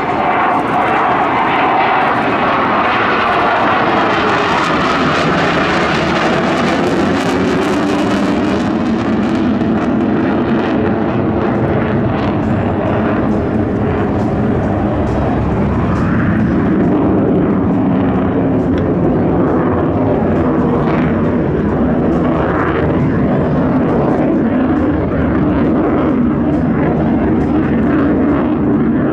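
Panavia Tornado fighter jet flying past, its twin RB199 turbofans making a loud, continuous jet noise, with sweeping changes in pitch as the aircraft moves across.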